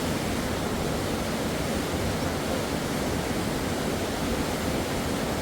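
Rushing river water: a steady, even noise, fullest in the low and middle range.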